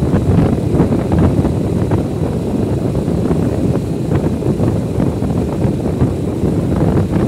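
Wind buffeting the microphone on a moving motorcycle, a steady loud rumble with road and engine noise beneath it.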